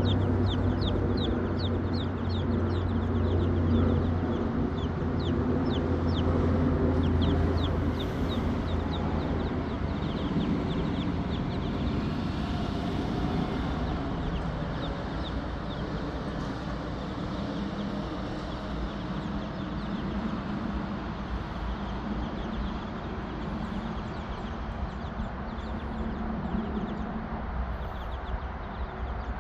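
Backyard chickens clucking, with a rapid series of short high chirps through roughly the first half and a low steady hum for the first several seconds.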